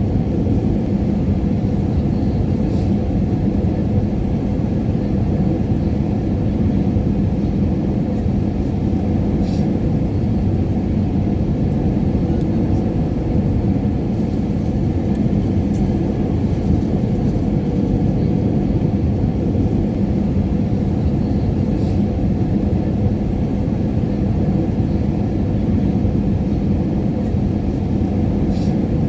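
Steady airliner cabin noise in flight: a deep, even rumble of engines and airflow with a low steady hum, and a few faint small clicks.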